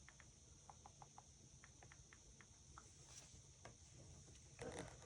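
Near silence with a scatter of faint, light clicks, like fingertips tapping on an iPhone's glass touchscreen.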